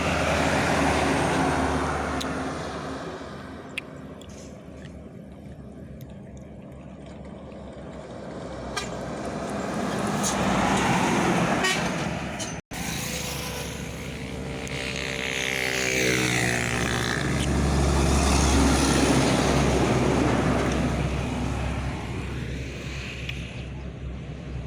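Heavy trucks and other road traffic passing close by one after another, engine and tyre noise swelling and fading three times. A vehicle horn sounds partway through, its pitch dropping as it passes.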